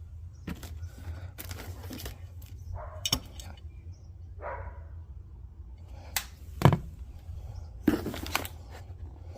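Unpacking a box of fuel tank parts: packaging rustles and a scattered series of sharp knocks and clicks as parts are handled, the loudest about two-thirds of the way through, over a steady low hum.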